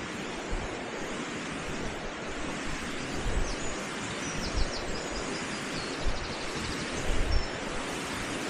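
Stream water rushing steadily, with a few low gusts of wind buffeting the microphone.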